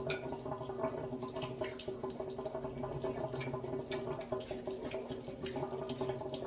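Hot water draining out of a gas water heater tank: steady running water with scattered drips and splashes.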